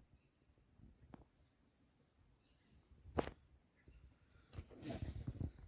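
Crickets chirping in a steady, rapid, high-pitched trill. A single sharp knock comes about three seconds in, with some rustling near the end.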